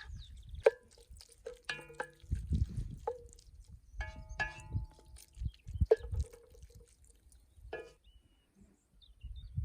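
A utensil knocking against a metal cooking pan while stirring cream into wilted greens: about eight separate clinks spread out, each ringing briefly, over a low rumble.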